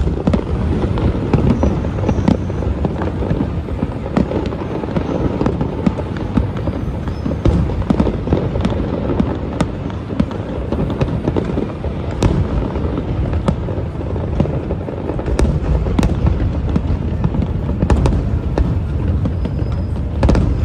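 Large fireworks display going off continuously: a dense run of bangs and crackles over a low rumble, with a few sharper bangs standing out in the second half.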